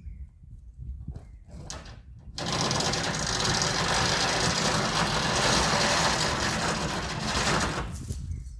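Pickup truck engine running with a low rumble, then about two and a half seconds in its rear tires break loose and spin on the grass, a sudden loud rushing hiss of spinning rubber and thrown dirt that lasts about five seconds and dies away near the end as the truck strains to drag a fallen tree.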